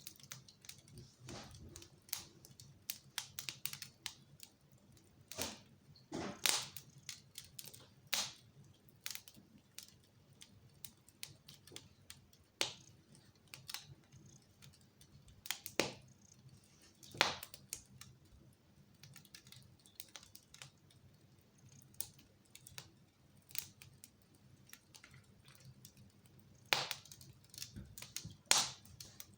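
Wood fire crackling in a fireplace: irregular small snaps and pops, with a handful of sharper cracks.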